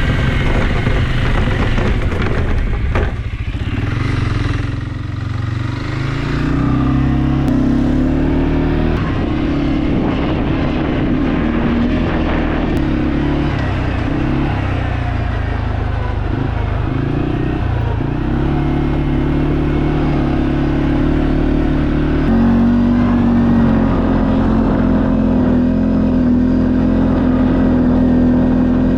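CFMoto CF400 quad bike's engine running on a ride, its pitch rising and falling several times with changes in speed, then holding steady near the end.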